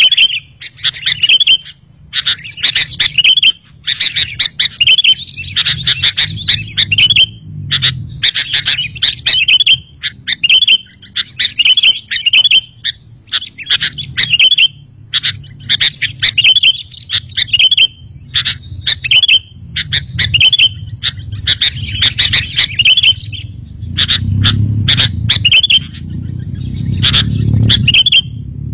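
Sooty-headed bulbul (kutilang) singing: short chattering, whistled phrases repeated about once a second. A low rumble runs underneath and grows louder near the end.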